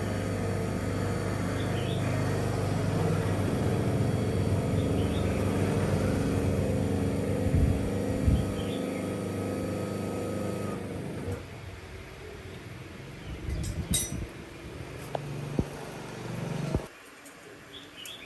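A motor or engine running steadily with a low hum, cutting out about eleven seconds in; a few knocks and clicks follow.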